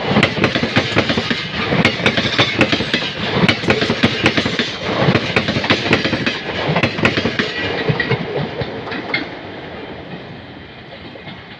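Express passenger train rolling past on the rails, its wheels clacking over the rail joints in an uneven stream of sharp clicks. The sound fades gradually over the last few seconds as the train draws away.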